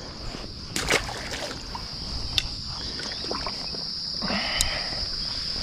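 A steady high-pitched insect chorus, with water sloshing and a few splashes and knocks near the wader, loudest about four seconds in.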